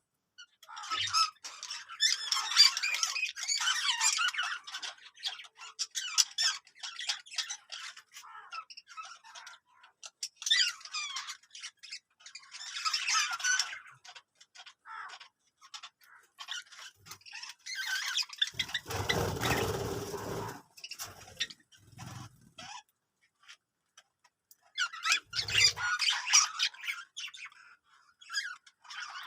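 Budgerigars chattering and squawking in bursts of a few seconds, with scattered single calls in between. A rustling noise lasting about two seconds comes a little past the middle.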